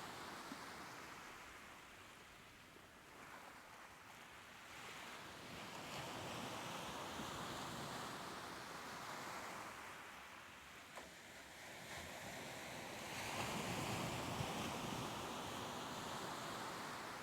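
Soft ocean surf washing in, an even hiss that swells and fades in slow surges as the waves come in, loudest about thirteen seconds in.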